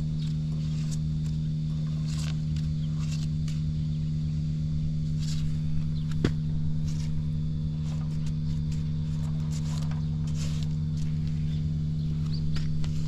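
Suzuki GN125H's single-cylinder four-stroke engine idling steadily, with a few light clicks over the running. The seller bills it as free of abnormal noises.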